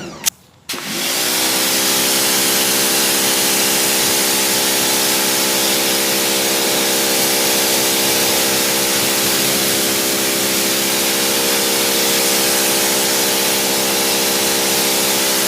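AR BlueClean 1900 PSI electric pressure washer kicking on about a second in. Its motor and pump spin up and run at a steady pitch under the loud hiss of the high-pressure water spray.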